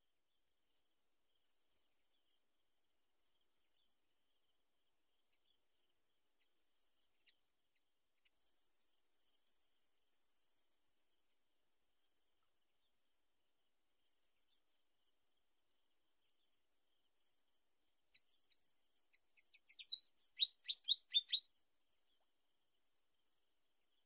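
Malaysian pied fantails at the nest calling: faint, thin, high chirps come and go. A little before the end there is a louder quick run of several falling notes.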